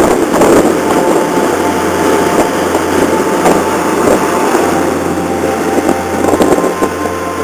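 Ferry Vayu's engines and machinery running steadily as it enters port: a constant low hum with faint steady whining tones and a few sharp knocks.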